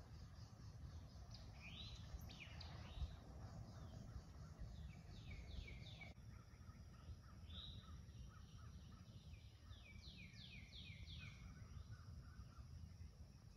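Songbirds singing in several short runs of quick, falling whistled notes over a faint low rumble of background noise, with one soft bump about three seconds in.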